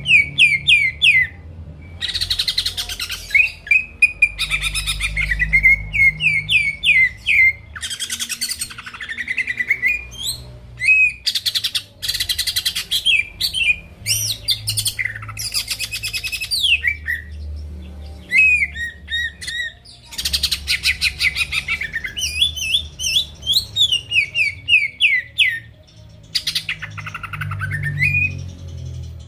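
Greater green leafbird (cucak ijo) in full song: rapid chains of short sweeping whistled notes alternating with dense buzzy chattering bursts, over a faint low hum.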